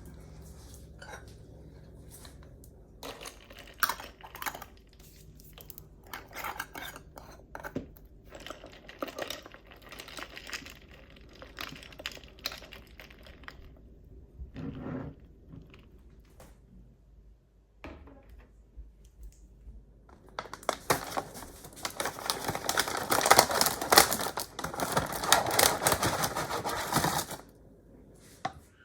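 Small household handling sounds: scattered light clicks, clinks and rustling, then about six seconds of dense, continuous noise near the end.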